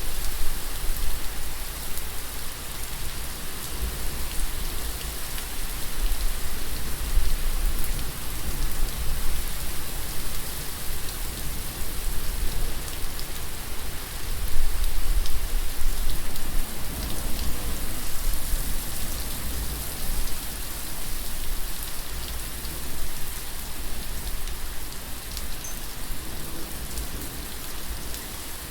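Steady heavy rain falling and pattering on surfaces, with a low rumble underneath that swells and eases, loudest about halfway through.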